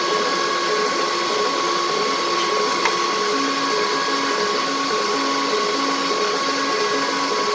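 Metal lathe running while turning a part: a steady whine over a constant hiss, with faint low tones coming and going in an even pattern and a single sharp click about three seconds in.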